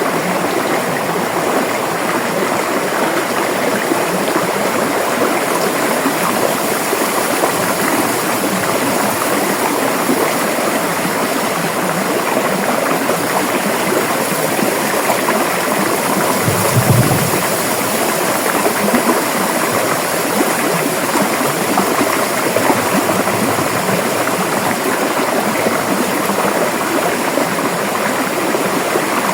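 River water rushing steadily, an even dense rush with no pauses. About halfway through comes one brief low thump.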